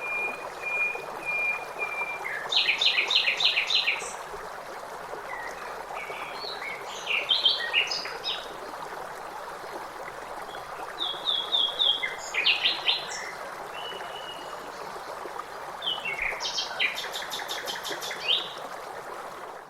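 A songbird chirping in bursts of quick, repeated notes a few seconds apart, over the steady rush of a waterfall.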